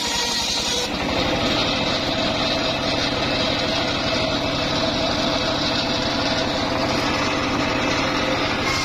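Engine-driven wood saw running steadily, with its sound changing about a second in and holding that way until near the end.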